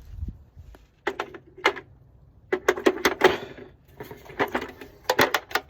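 Irregular clusters of sharp clicks and knocks, like things being handled and set down.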